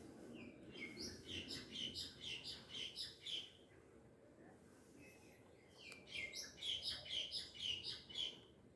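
A small songbird singing two phrases of quick, high chirping notes, each lasting about three seconds, with a short pause between them.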